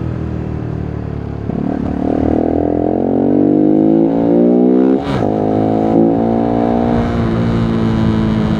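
Voge 125R's single-cylinder 125 cc engine pulling under acceleration, its note climbing for about three seconds. The pitch drops suddenly at an upshift about five seconds in, then the engine pulls on in the higher gear.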